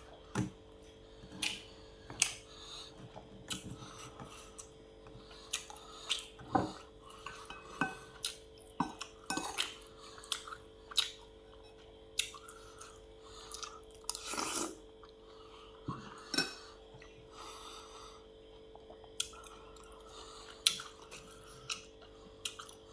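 Eating at a table: utensils clicking and clinking against a plate at irregular intervals, with chewing, over a steady faint hum.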